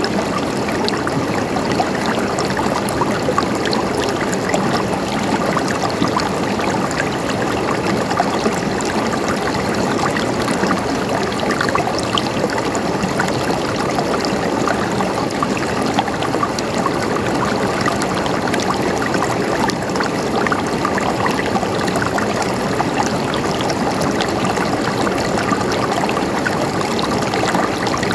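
Flowing water gurgling steadily, an even rush of water with many small splashes and drips in it.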